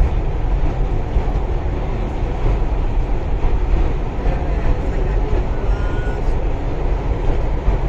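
Steady running noise of an MTR East Rail Line R-Train electric train in motion, heard from inside a passenger car: a continuous low rumble of wheels on rail and traction gear.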